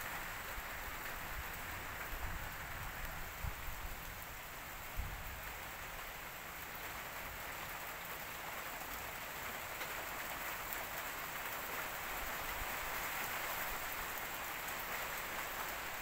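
Steady rain falling, a constant even hiss, with a few low thumps between about two and five seconds in.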